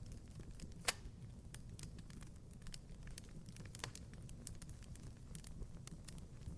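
Wood fire crackling in a fireplace: a scatter of small pops over a low steady rumble, with two louder pops about a second in and near four seconds in.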